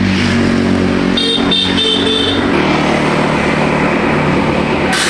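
Motor vehicle engine running steadily, with a short high-pitched sound from about one to two and a half seconds in.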